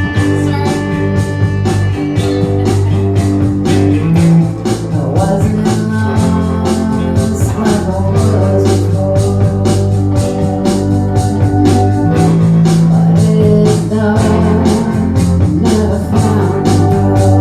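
A rock band playing a song: guitar and organ over a steady drum beat.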